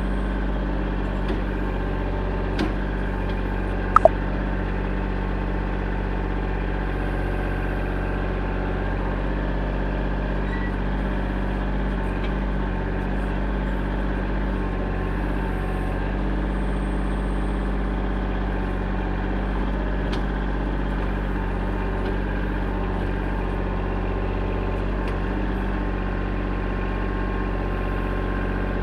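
An engine running steadily at a constant speed, with a few faint clicks in the first few seconds.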